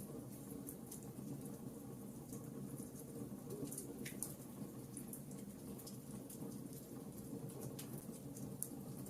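Logs burning in a fireplace: frequent small crackles and pops at irregular intervals over a low, steady rumble.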